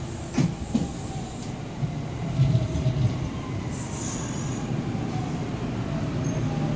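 Kintetsu 3200 series electric train pulling into the platform and slowing. Two sharp wheel clacks come near the start, then a heavy rumble with thumps as the cars pass, a whine falling in pitch, and a brief high squeal about four seconds in.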